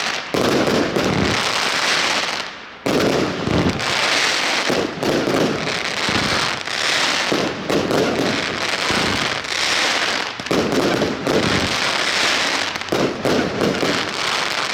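Xplode Double Deck Red consumer fireworks battery firing: a dense, continuous run of shots and bursts, with a brief lull about three seconds in, stopping right at the end.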